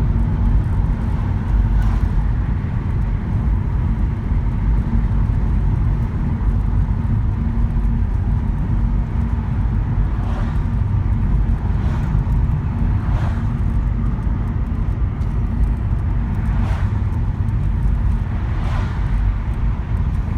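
Steady low rumble of a car driving, engine and road noise, with a few faint brief swishes.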